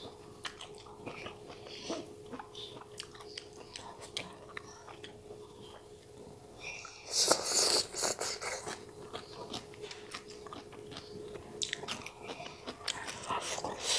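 Close-miked chewing and biting of stir-fried chicken gizzards and greens: wet mouth clicks and small crunches, with a louder crunchy stretch about seven seconds in. A faint steady hum sits underneath.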